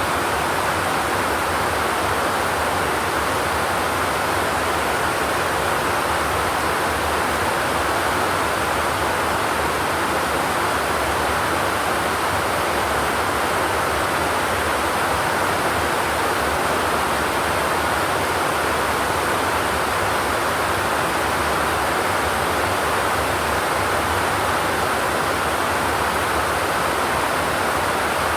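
Steady rain on a zinc sheet roof: an even, unbroken hiss with no thunder and no single drops standing out.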